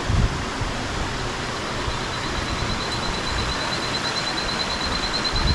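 A rapid, high-pitched pulsing trill from an insect starts about a second in and carries on over a steady hiss of forest background, with a low bump just after the start.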